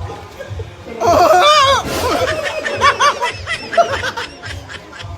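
A person laughing hard in high, wavering peals, loudest from about a second in, over background music with a steady low beat.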